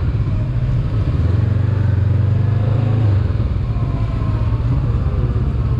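Honda CB500X's parallel-twin engine running at low speed as the bike rolls along, a steady low drone whose pitch rises and falls a little.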